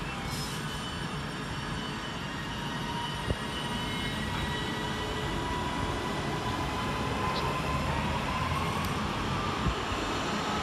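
Class 331 electric multiple unit pulling away. The rumble of the train runs steadily, and from about halfway a whine from the traction motors rises in pitch as it accelerates. There is a short knock about a third of the way in.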